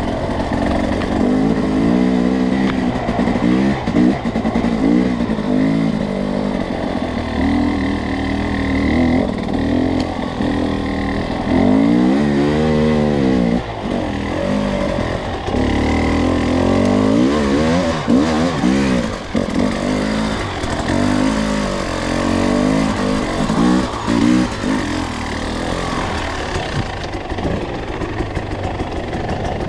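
Two-stroke enduro dirt bike engine under way on a trail, its pitch rising and falling again and again as the throttle is opened and eased. There is one large rev swell about twelve seconds in.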